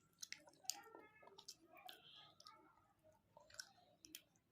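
Someone chewing momo dumplings close to the microphone: soft mouth noises with scattered sharp, wet clicks, about a dozen, irregularly spaced.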